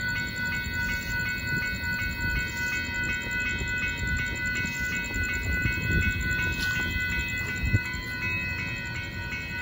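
Union Pacific intermodal freight cars rolling over the grade crossing, a steady rumble of wheels on rail, while the crossing bell rings with an even, repeating tone. One sharp clank stands out about eight seconds in.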